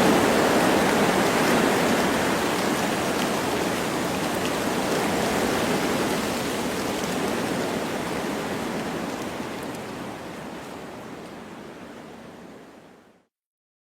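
Wind blowing through forest trees with light rain, a steady hiss that fades out gradually over the last several seconds and stops about thirteen seconds in.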